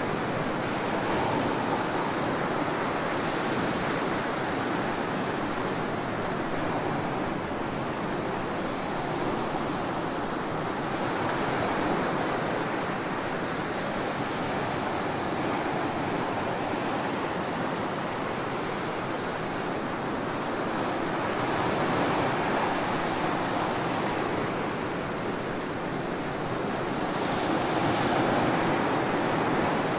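Ocean waves breaking and washing up on a tropical beach: a continuous surf rush that swells and eases every few seconds as each wave comes in.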